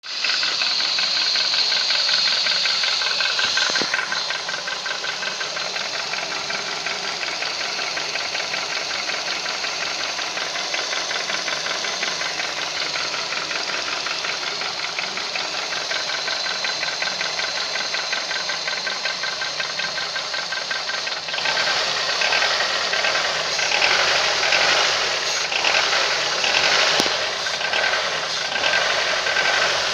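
Honda K20A four-cylinder engine running with a rapid, steady knock. It gets louder and more uneven about 21 seconds in. The owner says the knock is the same with the accessory drive belt removed, which rules out the accessories, and he does not know what is causing it.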